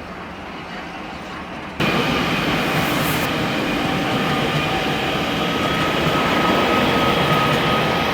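A train passing close by on the tracks, a loud steady running noise with faint high steady tones over it. The noise jumps up abruptly about two seconds in.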